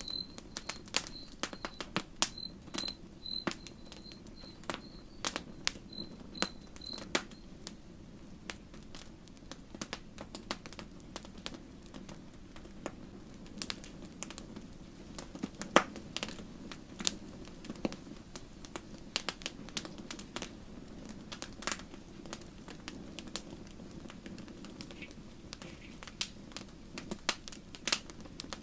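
Wood campfire crackling, with frequent irregular sharp pops and snaps over a low, steady hiss of the burning. For the first seven seconds or so a faint high chirp repeats about two or three times a second.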